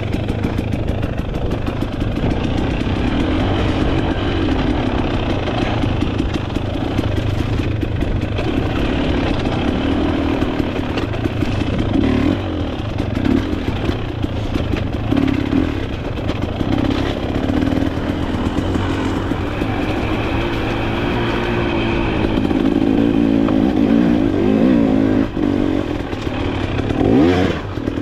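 Off-road dirt bike engine running while ridden, its pitch rising and falling with the throttle, with a sharp rev rising near the end.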